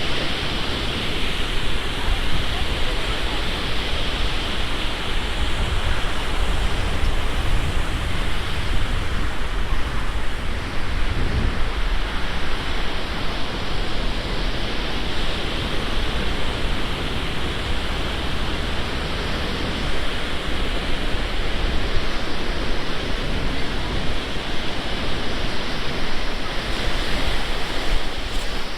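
Rough storm surf washing against a seawall, a steady rushing with deep rumble, with wind blowing over the microphone.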